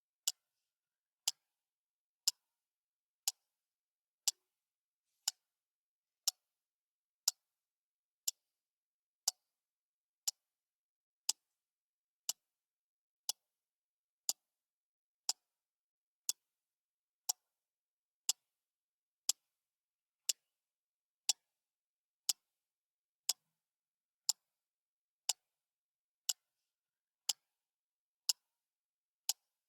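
Clock ticking steadily: sharp, evenly spaced ticks, one a second.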